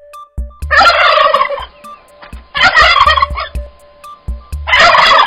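Turkey gobbling: three loud, rattling gobbles about two seconds apart.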